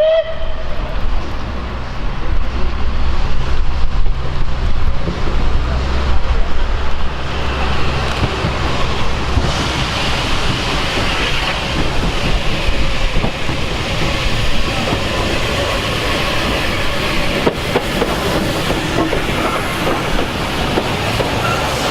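Train running on the track: a heavy low rumble for the first several seconds, then a brighter rushing noise for the rest.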